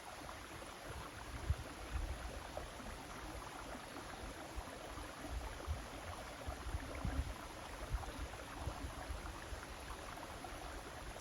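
River water flowing steadily, with irregular low rumbles.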